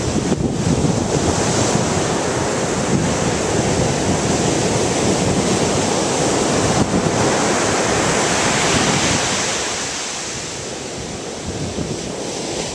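Ocean surf breaking and washing ashore, with wind on the microphone. The surf noise eases about nine seconds in.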